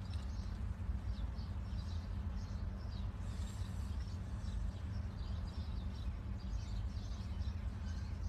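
Birds chirping over and over against a steady low hum, heard from inside a car.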